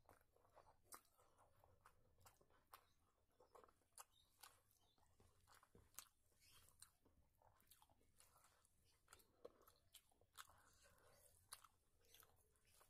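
Faint close-miked chewing and mouth smacks of someone eating rice by hand, with many short, irregular clicks scattered throughout.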